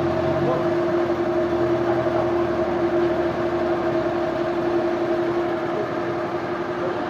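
Sawmill machinery running steadily: a constant mechanical hum with a steady pitched whine over a noisy rumble.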